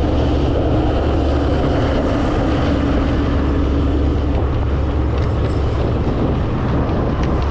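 Motor scooter under way, its engine running beneath a steady rumble of wind on the microphone.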